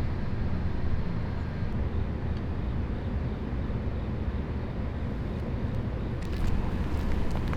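Steady low rumble of vehicle noise, with a few short clicks near the end.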